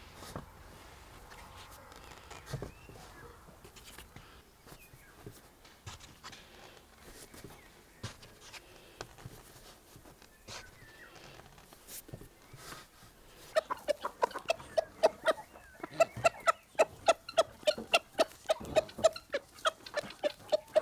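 A chicken clucking in a fast, even run of short calls, about three or four a second, starting about two-thirds of the way in. Before that there are only faint scattered clicks.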